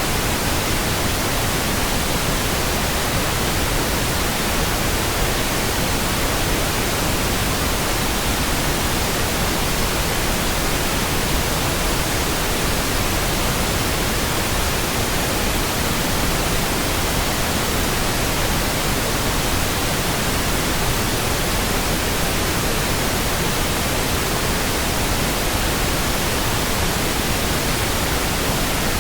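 Steady pink noise: an even, unchanging hiss across the whole range, with no tones or sudden sounds.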